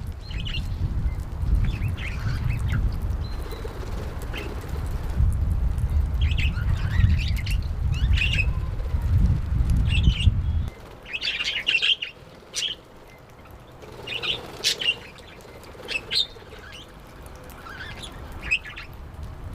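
Budgerigars chirping in short, quick calls. A loud low rumble runs under them for the first half and stops abruptly a little past the midpoint, after which the chirps carry on alone.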